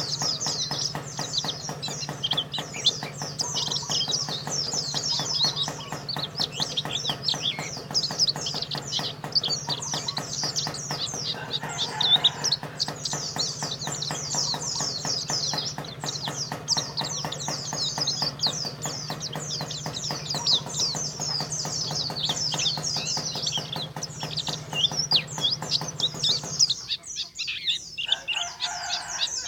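Pleci (white-eye) songbird singing a long, fast, unbroken stream of high twittering chirps and trills, breaking off briefly near the end before starting again.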